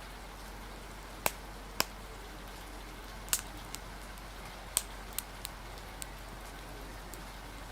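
Crackling fire giving sharp, irregular pops, about seven of them, over a steady hiss of rain.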